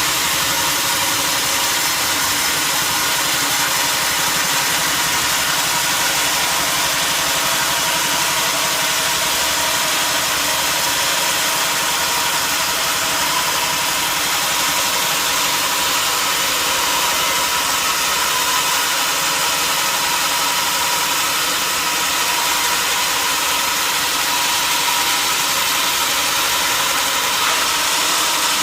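Sawmill machinery running steadily: a loud, constant mechanical noise, mostly hiss with a faint steady whine, unchanging throughout.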